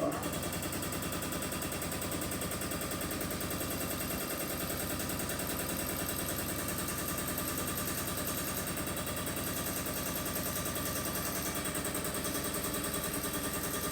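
A motor-driven machine starts abruptly and runs steadily, with a rapid, even pulsing.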